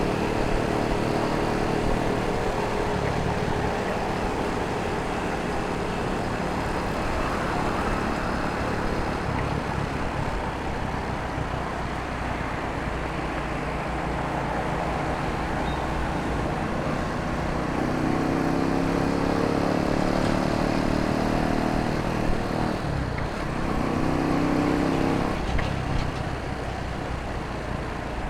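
Motorcycle engine running under way with wind and road noise, its pitch climbing as it is revved up about two-thirds of the way through and again near the end, amid city traffic.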